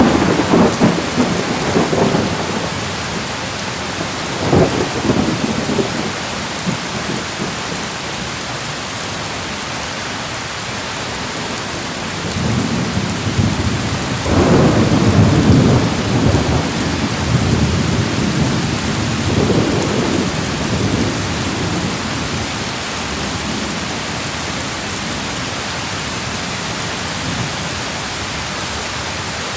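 Steady rain hissing down, with thunder rumbling over it several times: short rolls at the start and a few seconds in, then a long, louder roll through the middle that fades away, leaving only the rain.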